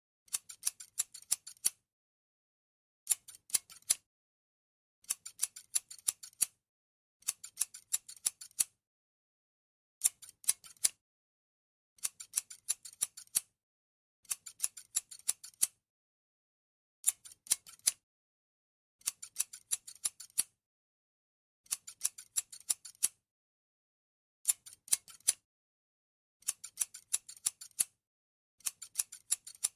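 Scissors snipping in quick runs of several cuts at a time, each run about a second long, with silent gaps between; about a dozen runs in all. The snips are crisp and high-pitched.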